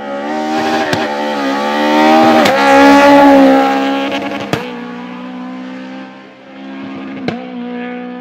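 Rally car engine revving hard as the car accelerates past, loudest a few seconds in, with sharp cracks as the pitch drops at each gear change, three times. Afterwards the engine note holds steadier, with one more crack near the end.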